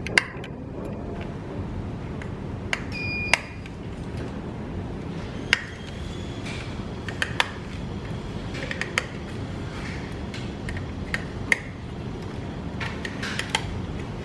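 Sharp, scattered clicks and taps of small parts and tools being handled on a workbench, over a steady hum of workshop noise, with one short high electronic beep about three seconds in.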